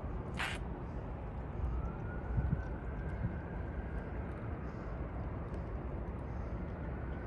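Outdoor city ambience: a steady low rumble of distant traffic, with a short hiss about half a second in.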